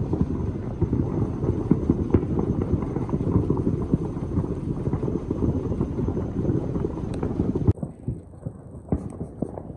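Many fireworks going off at once in the distance, a dense, continuous crackle of pops and booms. Near the end it thins to scattered single bangs.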